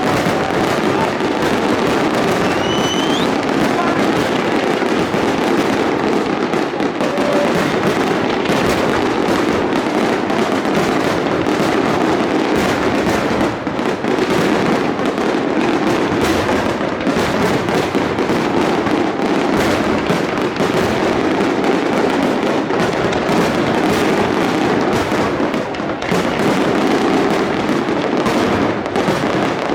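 Fireworks display: a dense, continuous barrage of bursts and crackling, with a short rising whistle about two and a half seconds in.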